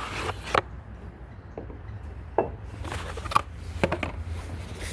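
Sharpening stones and their boxes being handled: a few light, separate knocks and rubbing sounds as they are picked up and set down, over a steady low hum.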